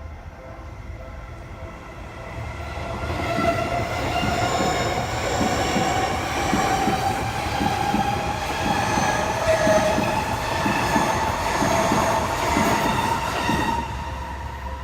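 Seibu Shinjuku Line electric train passing a level crossing, its wheels clattering rapidly over the rail joints for about ten seconds before dying down near the end. The crossing's warning bell rings steadily throughout.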